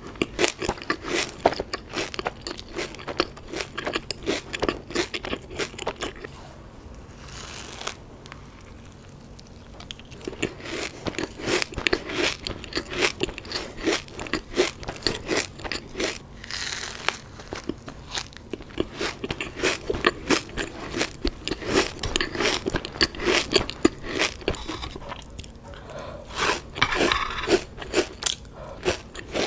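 Close-miked crunchy chewing of a Dubai chewy cookie, its toasted kataifi-and-pistachio filling crackling between the teeth in rapid clicks. The crunching pauses for a few seconds about a quarter of the way in, then starts again with fresh bites.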